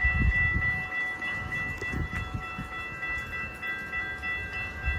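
Amtrak Hiawatha passenger train, led by two SC44 Charger locomotives, rolling through the station: a low rumble with heavy wheel clunks near the start, about two seconds in and again near the end. Steady high-pitched tones ring over it throughout.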